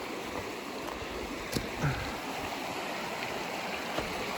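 Small river rapids rushing steadily, with a faint click and a short low knock just over a second and a half in.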